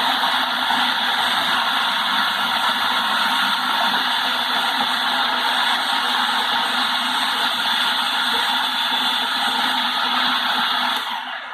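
Electric kitchen blender running steadily, blending frozen bananas with milk into soft-serve banana ice cream, then switching off near the end.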